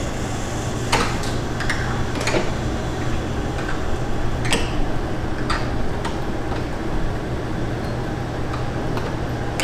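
Kitchen work sounds: scattered sharp clinks and knocks of metal utensils and pans over a steady low machine hum.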